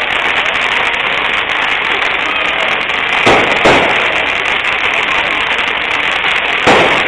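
Ground fireworks going off over a steady dense hiss, with three loud bangs: two about half a second apart a little over three seconds in, and one near the end.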